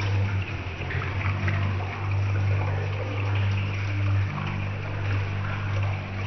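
Water trickling and splashing down a paludarium waterfall, over a steady low hum.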